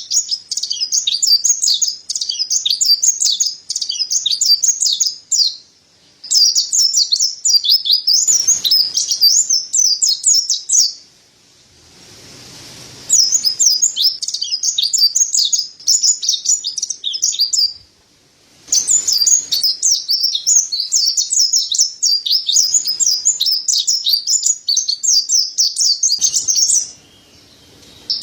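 Mountain white-eye (pleci dada putih, Zosterops montanus) singing a rapid, high-pitched twittering song in long bouts, broken by a few short pauses.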